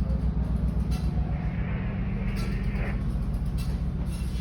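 Steady low drone of a vessel's diesel engine running, with a faint hiss rising and falling midway.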